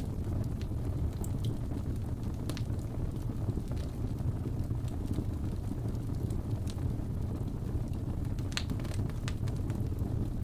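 Wood fire burning with a steady low roar and scattered sharp crackles and pops, a brief cluster of them near the end.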